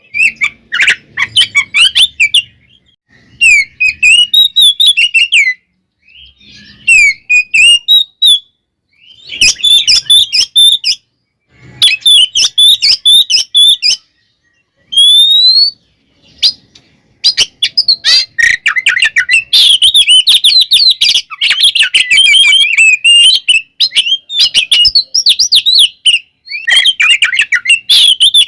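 Oriental magpie-robin (kacer) singing loudly in bursts of fast, varied whistles and scratchy chattering notes separated by short pauses, with a long, nearly continuous run of song in the second half.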